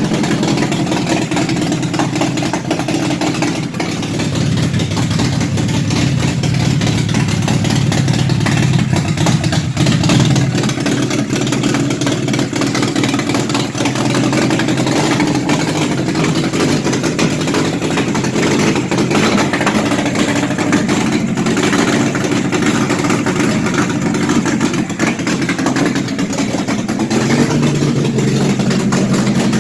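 Car engine idling during an ignition timing check, its idle speed shifting for a few seconds about four seconds in and again near the end.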